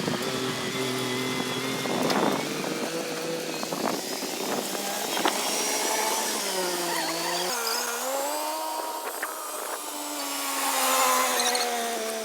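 John Deere 5210 tractor's diesel engine running under load while pulling an 18-disc harrow. Its pitch sags about six to seven seconds in and then climbs back up.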